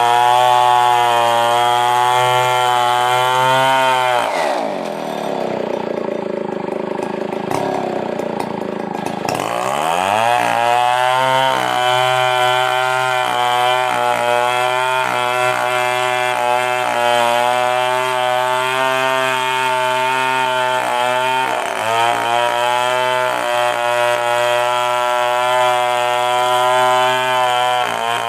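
Stihl 070 two-stroke chainsaw running at high revs while ripping a coconut-palm trunk lengthwise. About four seconds in the engine drops toward idle, then it is revved back up about ten seconds in and held high, with a brief dip a little past twenty seconds.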